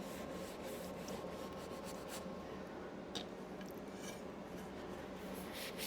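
Faint scratchy handling sounds, then near the end quick back-and-forth rubbing strokes as wax is rubbed back off a milk-painted wood board.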